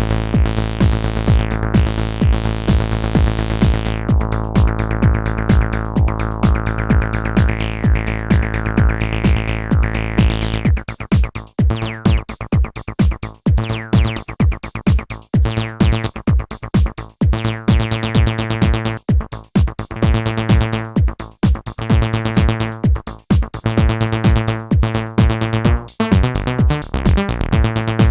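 Acid-style bass line from two Behringer TD-3 MO synthesizers (TB-303 clones) playing in unison, unprocessed, over a drum-machine beat from a Roland JD-Xi. For the first third it holds a sustained line with sweeping filter tones; then the line turns choppy and staccato, broken by short gaps.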